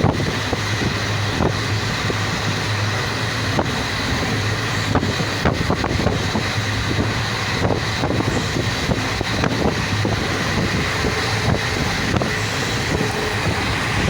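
Moving train: a steady rumble and rushing air, with irregular clacks from the wheels on the track.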